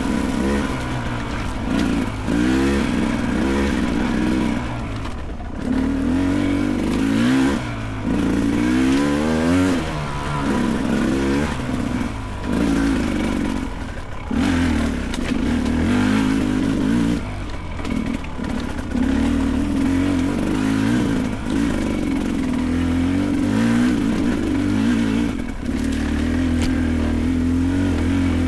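Beta 300 Race Edition two-stroke dirt bike engine, revved up and let fall again and again as the throttle is worked.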